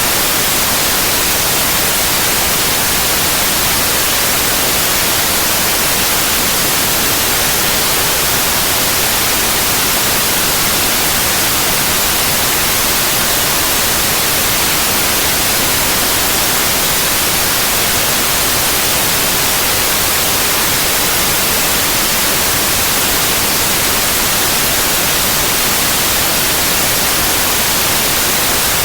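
Steady white noise: an even, unchanging hiss across the whole range, brightest in the highs, with no breaks.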